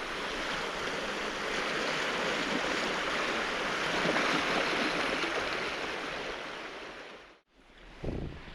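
Surf washing onto a cobble beach, a steady rushing that fades out and breaks off briefly near the end before returning.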